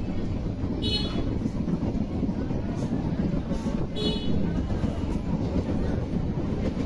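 Passenger train running along the track, heard from aboard: a steady rumble of wheels and carriage. Two brief high squeals come through about three seconds apart.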